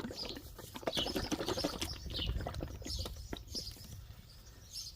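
Plastic jug of 15W-40 motor oil being handled, its contents sloshing with irregular knocks for the first three seconds or so. Small birds chirp throughout.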